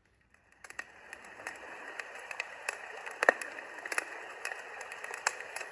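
A small baby sound machine speaker playing one of its built-in soothing sounds: a steady hiss with irregular sharp crackles scattered through it. It starts about half a second in, after a brief silence.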